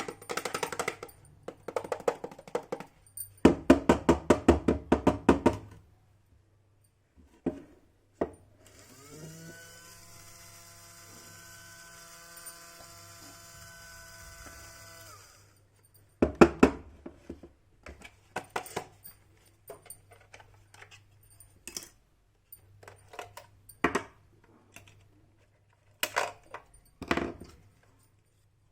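Clattering and tapping of small plastic parts being handled, then a mini toy washing machine's small electric motor spins up with a rising whine about nine seconds in, hums steadily for about six seconds and stops. More scattered plastic clicks and taps follow.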